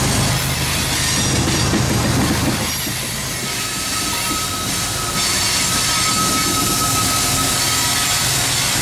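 CSX diesel freight train passing: the locomotive's engine hum for the first few seconds, then the cars rolling by with a steady high-pitched wheel squeal from about three and a half seconds in.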